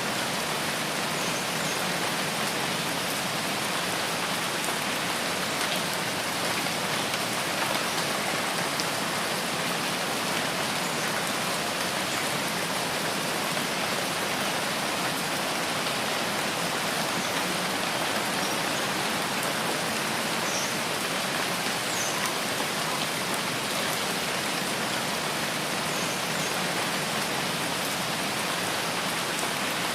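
Steady rain falling on forest foliage, an even hiss of drops that does not let up. A few faint short high chirps come through it now and then.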